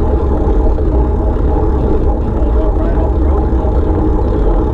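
An engine running steadily under a heavy low rumble.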